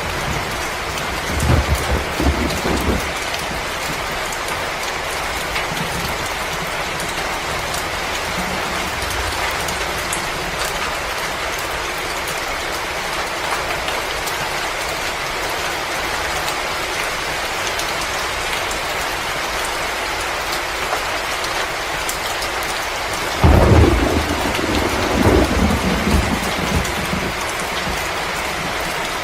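Steady, dense hiss from a fireplace-and-winter-storm ambience, with a few faint scattered ticks. A deep low rumble comes about two seconds in, and a louder one near the end.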